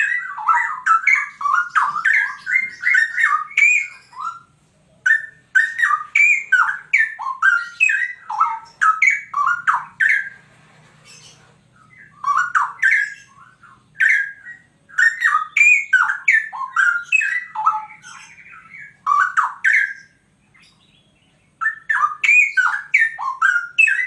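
Straw-headed bulbul (cucak rowo) singing loud, rapid runs of sweeping notes in phrases several seconds long, broken by short pauses.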